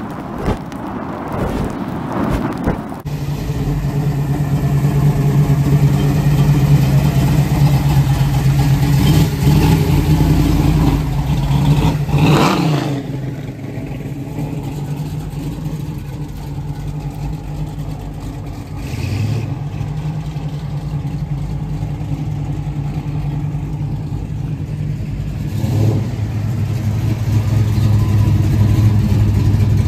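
Classic cars' engines running as they roll slowly past in a line, a steady low drone, with one engine revving up and back down about twelve seconds in and another engine getting louder near the end.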